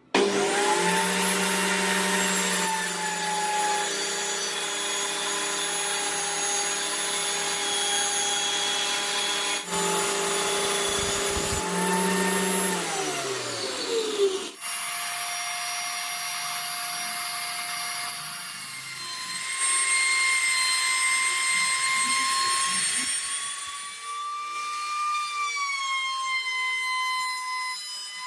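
Electric power tool motor switched on, running at steady speed, then switched off and winding down with a falling whine about twelve seconds in. It runs again afterwards, louder for a few seconds in the middle of that stretch.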